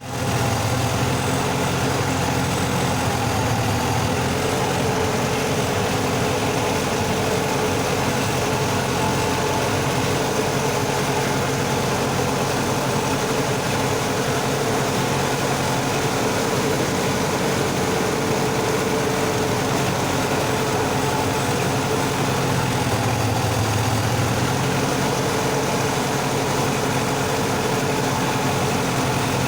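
Sonalika tractor's diesel engine running steadily under load while driving a rotavator through deep mud, with a brief dip in engine speed about three-quarters of the way through.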